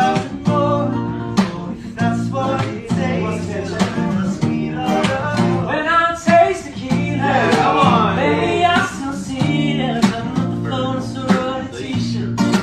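Acoustic guitar strumming a repeating three-chord progression, with singing over it.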